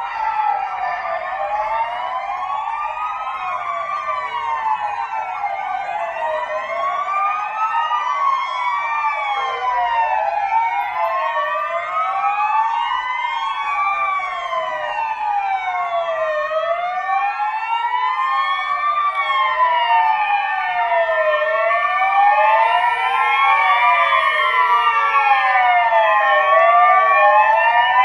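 Several police and fire-truck sirens wailing at once, their rising and falling sweeps overlapping out of step. They grow slowly louder toward the end.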